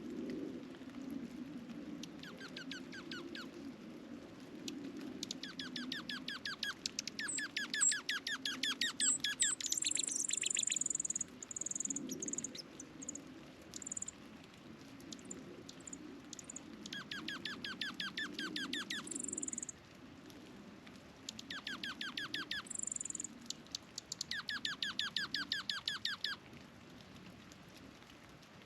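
Songbirds singing outdoors: five bouts of fast, evenly repeated trilled notes, each lasting one to a few seconds, mixed with a few short, very high-pitched notes, over a steady low background hum.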